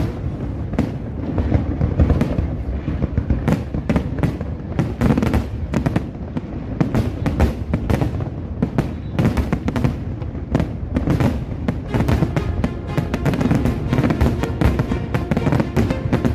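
Aerial fireworks bursting in a rapid, continuous barrage, many sharp reports a second, over loud show music.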